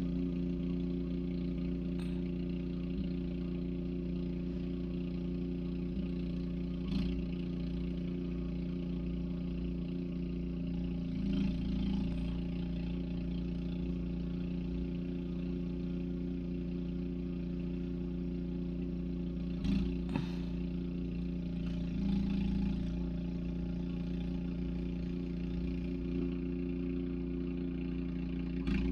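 Steady motor drone holding an even pitch, with a few brief knocks and bumps about 7, 12, 20 and 22 seconds in.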